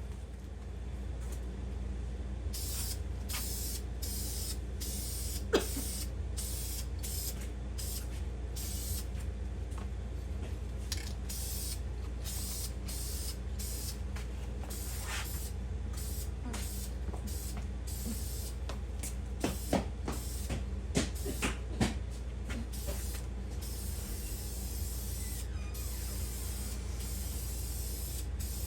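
Paint being sprayed onto a 383 engine block in many short hissing bursts, over a steady low hum. A few light knocks come about twenty seconds in.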